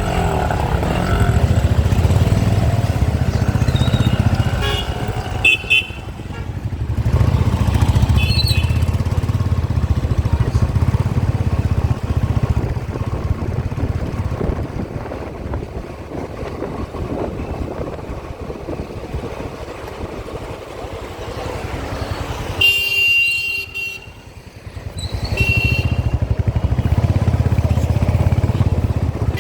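City street traffic heard from a moving bike: a steady low rumble of engines and wind, with vehicle horns honking several times, in a cluster about a fifth of the way in, again about 8 seconds in, and twice near the end.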